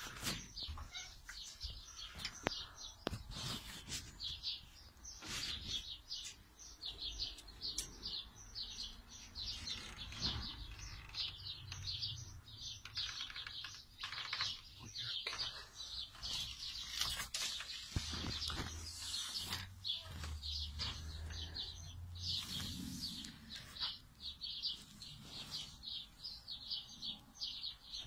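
Small birds chirping continuously in quick short high notes, several a second, with a few sharp knocks in the first few seconds.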